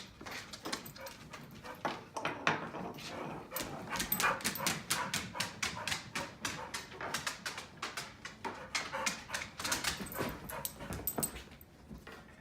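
A pit bull whining and yipping in a rapid string of short cries, several a second, dying away near the end.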